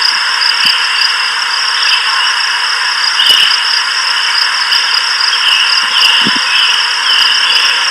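A steady, loud, high hiss with brighter bands flickering within it, like a dense outdoor ambience, and a few faint low thumps.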